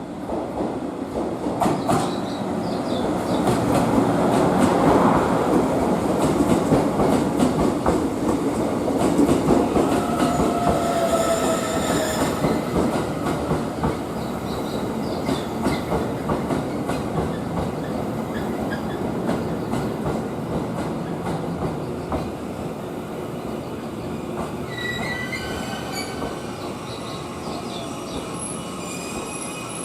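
E001 Train Suite Shiki-shima cruise train rolling into a station platform, wheels clacking over rail joints, loudest as it passes and then quieter as it slows. High wheel and brake squeals come about ten seconds in and again near the end as it brakes to a stop.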